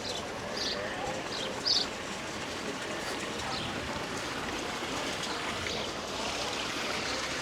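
Steady outdoor background noise with a few short, high bird chirps in the first two seconds, the loudest near two seconds in.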